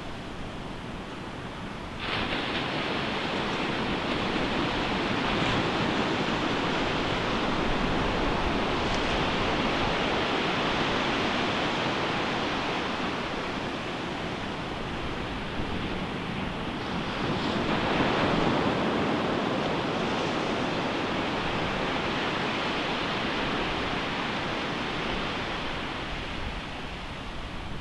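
Ocean surf breaking on a beach. A wave crashes suddenly about two seconds in and its wash runs on. Another wave surges in a little past the middle, then eases off toward the end.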